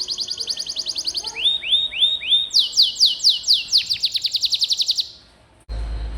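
Domestic canary singing: a fast rolling trill of quick high notes, then a slower phrase of rising hooked notes, then another rapid run of falling notes. The song cuts off about five seconds in, and a low steady hum with faint chirps follows as another recording begins.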